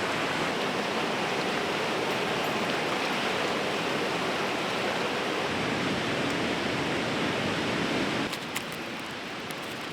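Fast-flowing river rushing, a steady, dense noise of water. About eight seconds in it drops to a quieter rush with a few light clicks.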